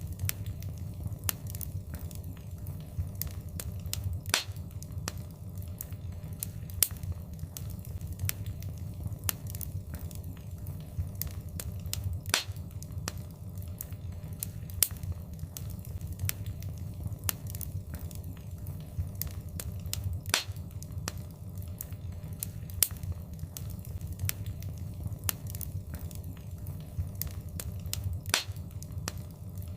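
Wood fire burning in a fireplace: a steady low rumble of flames with frequent small sharp crackles and a few louder pops.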